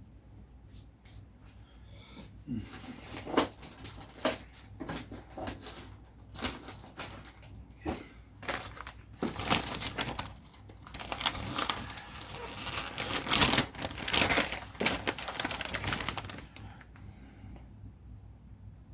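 Plastic scatter containers being handled and shaken while darker green scenery scatter is sprinkled: irregular clicks, rattles and crinkling, busiest in the middle stretch.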